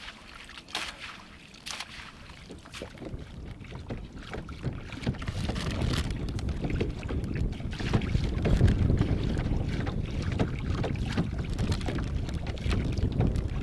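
Wind buffeting the microphone, a low rumble that builds about five seconds in and stays strong, with a couple of sharp clicks in the first two seconds.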